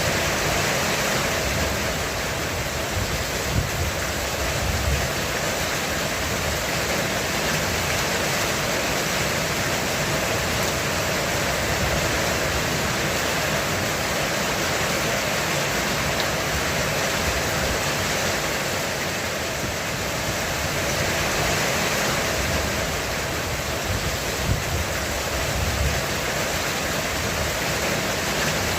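Heavy rain falling steadily on a roof, a dense even hiss. Low rumbles of distant thunder come a few seconds in and again near the end.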